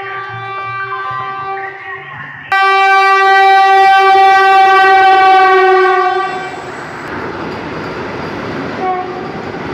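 Train horn blowing: a steady note that jumps to a long, loud blast about two and a half seconds in. It then gives way to the rumble of the train running through, with a brief toot of the horn near the end.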